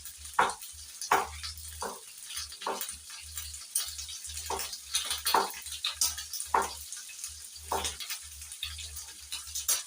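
Chicken gizzards with onion, ginger and garlic sizzling in a cooking pot, a steady hiss broken by irregular short scrapes or knocks about once a second.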